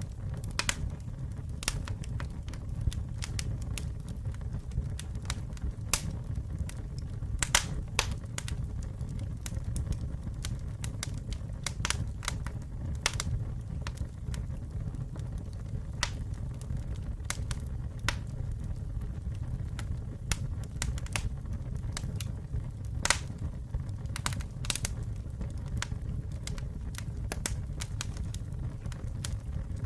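Wood campfire burning: a steady low rumble of flame with irregular sharp crackles and snaps, a few louder pops among them.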